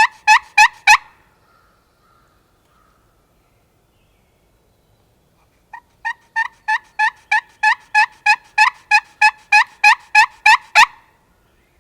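Turkey slate call worked by hand, imitating hen yelps: a few yelps at the start, then after a pause a long, evenly paced run of about three yelps a second, the last one the loudest. It is a calling sequence meant to draw a gobbler in.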